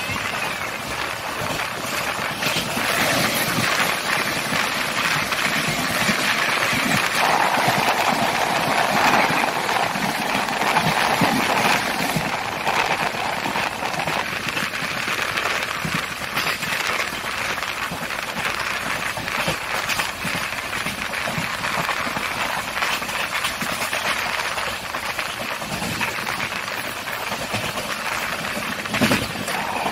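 Passenger train running, heard from inside the coach: a steady noise of wheels on the track with frequent clicks and rattles.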